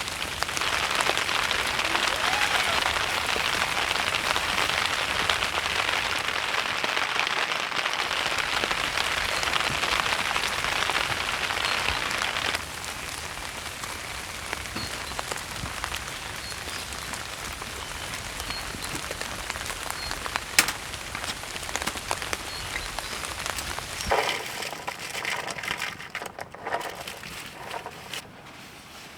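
Heavy rain falling on a tent. It is loud for the first half, then turns abruptly softer about halfway through, with one sharp tap near two-thirds of the way in. It fades and changes character near the end.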